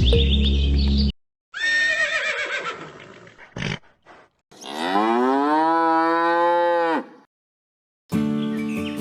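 Cow mooing: a shorter call about one and a half seconds in, then one long moo that rises in pitch and holds. Background music stops just before the calls and comes back near the end.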